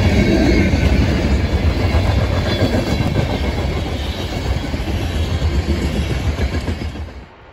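Freight train of loaded coal hopper cars rolling past close by, a loud, heavy rumble of the cars and wheels on the rails. It fades slightly, then stops abruptly about seven seconds in.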